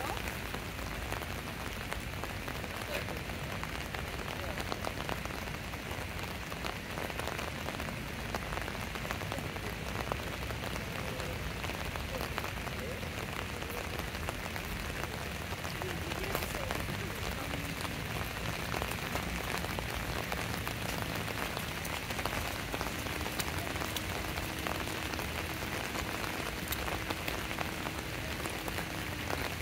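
Steady rain falling, with many close drops ticking on hard surfaces. A faint steady hum comes in about two-thirds of the way through.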